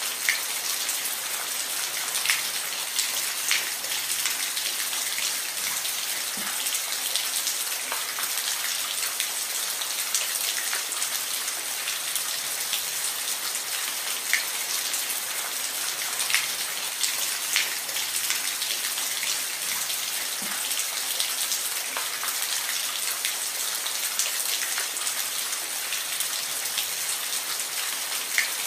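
Steady rain: an even hiss of rainfall with individual drops ticking sharply now and then.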